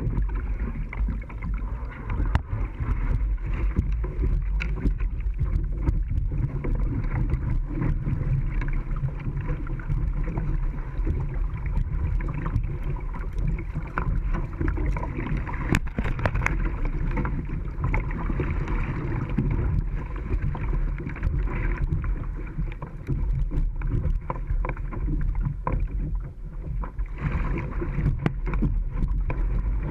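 Steady rush of moving creek water around a kayak, with many small splashes and knocks scattered throughout over a low, continuous rumble.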